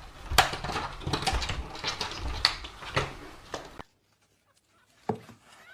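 Irregular tapping, knocking and scuffling, then a cut to quiet and a single thump; a cat begins to meow at the very end.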